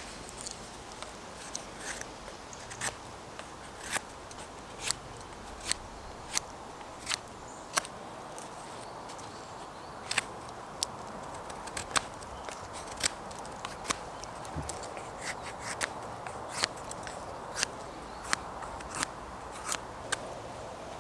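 Wood campfire crackling: irregular sharp pops, about one or two a second, over a steady soft hiss.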